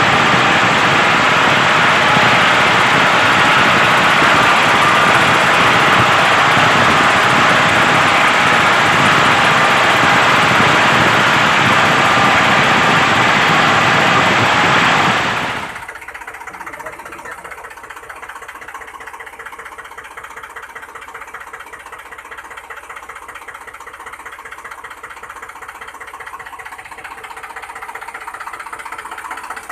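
A small motor running with a fast, rattling beat. It is loud for about the first half, then drops suddenly to a quieter steady run for the rest.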